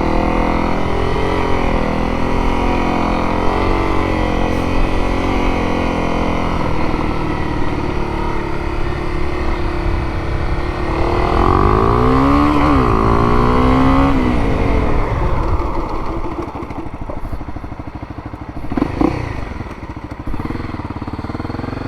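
Motorcycle engine with its revs rising and falling as it is ridden slowly through tight turns. It gives a louder climb and drop in revs about halfway through, then quietens toward the end.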